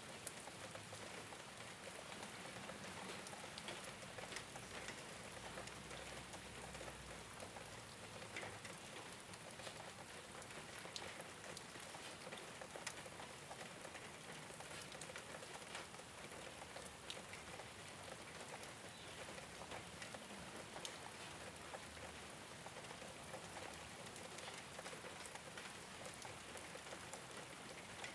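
Steady rain falling on a rooftop: a constant hiss dotted with many separate drops ticking.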